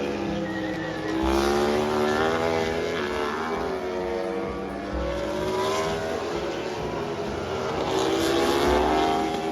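Racing motorcycles passing at speed one after another, their engine notes sweeping up and down in pitch as each goes by. The loudest passes come about a second in and near the end.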